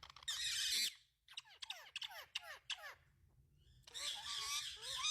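Indian ringneck parakeet calling: a harsh screech near the start, then a quick run of short falling chirps, then a longer harsh screech near the end.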